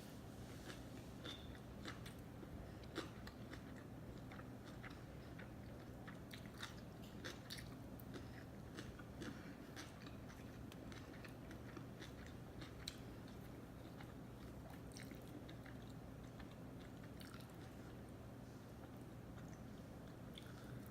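A person chewing sushi close to the microphone: many short mouth clicks and smacks, thickest about midway, over a faint steady low hum.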